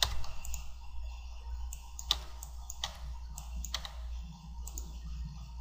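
Computer mouse and keyboard clicks: a handful of separate sharp clicks spaced irregularly, over a low steady hum.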